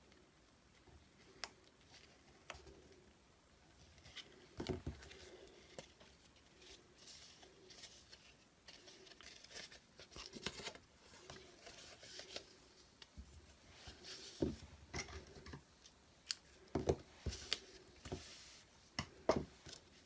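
Cardstock and baker's twine being handled at a craft table: light rustling of card with scattered small clicks and taps as the twine is threaded through and wrapped round.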